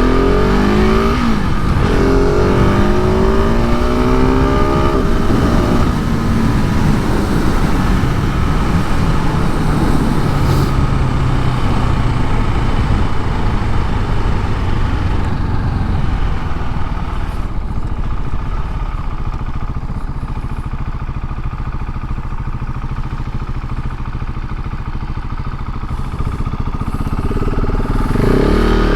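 KTM 690 SMC R's single-cylinder engine through its stock exhaust, revving up and down hard over the first few seconds. It then runs steadier and a little quieter on lighter throttle, and revs up again near the end.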